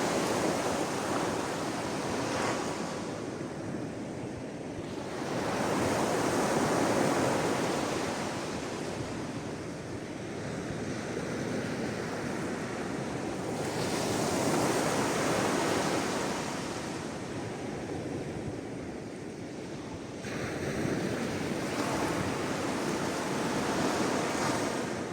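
Sea waves washing onto the shore, each surge of surf swelling and then fading, about every six to seven seconds.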